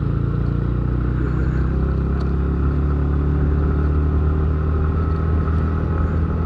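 Yamaha R15 V3 motorcycle engine running steadily as it is ridden up a steep slope.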